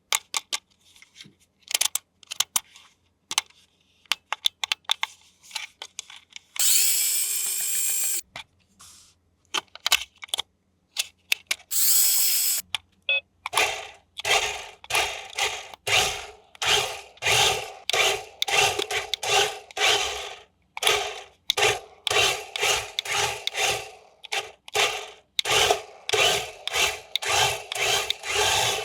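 Scattered clicks, then a small electric motor whirs up to speed twice, once for about a second and a half and once briefly. From about halfway on, a long run of rhythmic rasping strokes.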